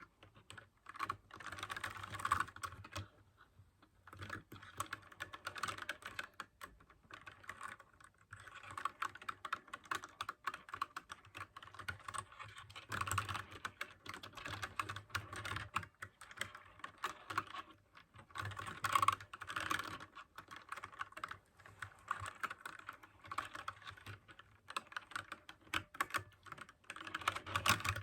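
Mechanical keyboard with clicky blue switches being typed on at working speed, in fast runs of keystrokes broken by short pauses.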